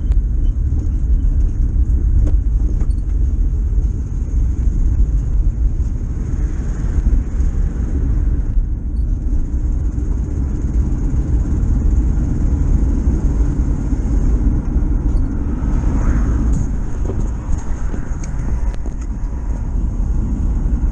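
1973 VW T2 camper van under way, its air-cooled flat-four engine and road noise making a steady low rumble.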